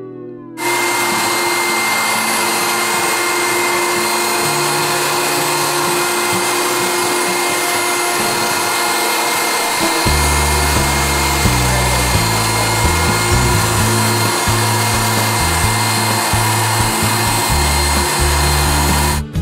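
Water-extraction vacuum running loud and steady, a continuous rushing hiss with a few fixed whining tones, as water is pulled from soaked carpet. Background music with low bass notes joins about ten seconds in.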